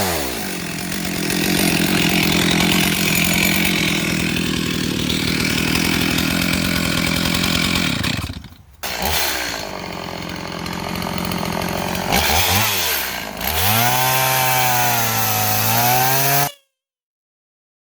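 Two-stroke chainsaw on an Alaskan chainsaw mill running under load as it saws through a log, with a brief drop in the sound about eight seconds in. Near the end the engine pitch rises and falls several times, and then the sound cuts off abruptly.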